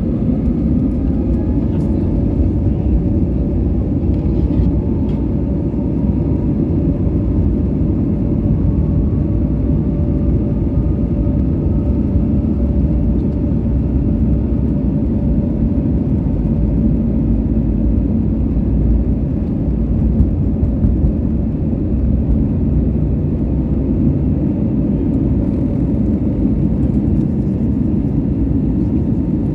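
Airbus A320neo's Pratt & Whitney PW1100G geared turbofan engines heard inside the cabin during takeoff: a loud, steady rumble, with a faint whine rising in pitch over the first dozen seconds.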